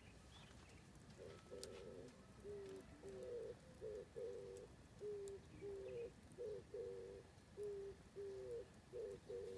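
A dove cooing: a long run of low coos in a steady rhythm, starting about a second in. Faint crackles from an oak-wood campfire.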